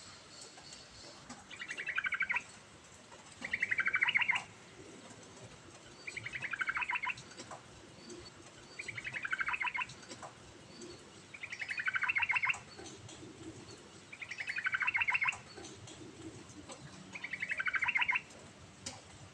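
Yellow-vented bulbul (trucukan) singing: a short burst of rapid, bubbly notes, about a second long, repeated about every two and a half seconds, seven times in all.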